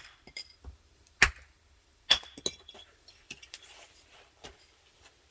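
Wood fire crackling, with irregular sharp pops and snaps from the burning logs.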